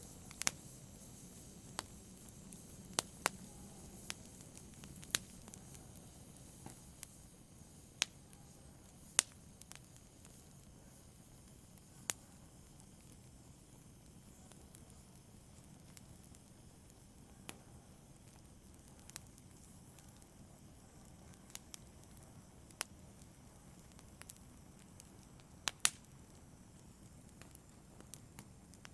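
Wood fire burning in a fireplace: a faint low hiss with sharp crackles and pops at irregular intervals, a quick double pop near the end.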